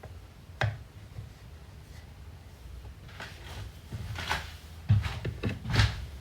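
Kitchen handling sounds as breakfast is made: a sharp knock just under a second in, then a run of knocks, clatters and rubbing of cookware and utensils from about three seconds on, the loudest near the end, over a low steady hum.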